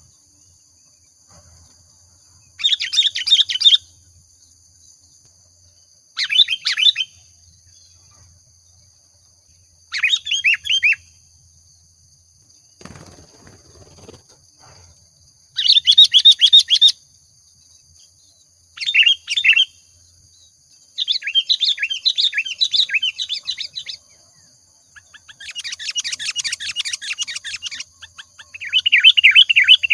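Sooty-headed bulbul (kutilang) singing: short bubbly phrases of quick notes, each about a second long, repeated every few seconds, with two longer chattering runs in the later part. Faint steady high tones sound behind the song, and there is a brief low rustle about halfway.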